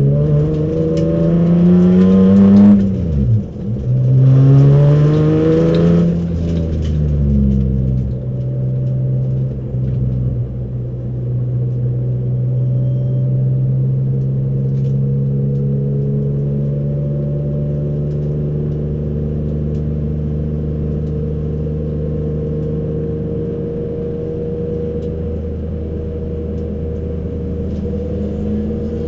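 Race car's engine heard from inside the cockpit, revving up as the car pulls away, with a sharp drop in pitch about three seconds in as it shifts gear. About six seconds in it settles into steady, low revs at a slow cruise.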